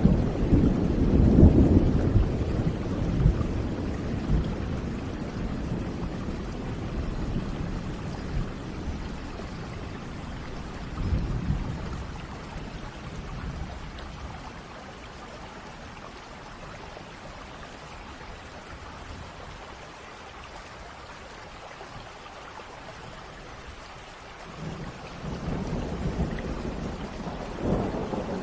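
Thunder rumbling over steady rain. A deep rumble at the start dies away over several seconds, a short one comes about eleven seconds in, and another builds near the end, with only the rain's hiss in between.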